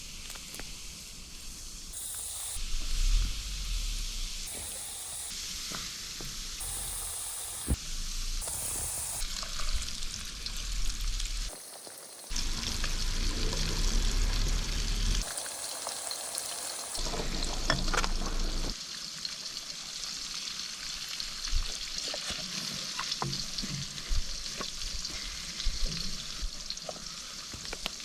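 Food sizzling as it fries over an open campfire, a steady hiss with scattered sharp crackles. The sound changes abruptly several times.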